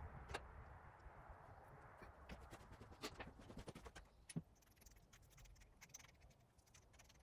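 Near silence with faint, scattered clicks and taps of drill press parts being handled during cleaning, and a faint hiss dying away in the first second.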